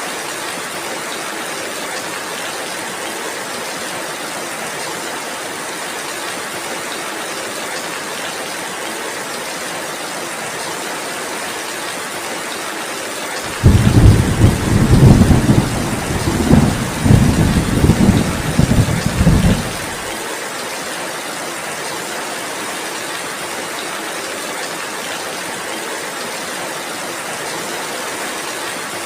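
Steady heavy rain, with a roll of thunder about halfway through that rumbles low and loud for around six seconds before the rain is left alone again.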